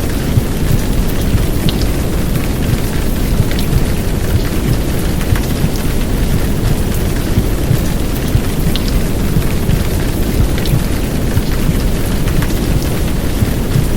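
Heavy downpour of rain over a dense, low, steady whooshing rumble of womb sound, with scattered sharp drop ticks throughout.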